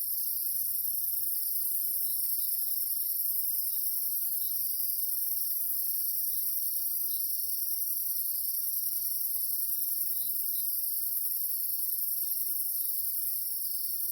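Chorus of night insects: a steady, dense, high-pitched shrilling that does not let up.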